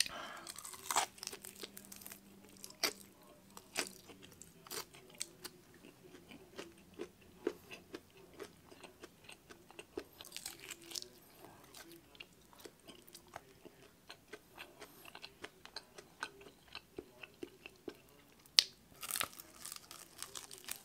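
Close-miked eating of crispy Filipino-style fried chicken: repeated crunchy bites and chewing, with a louder crunching bite near the end.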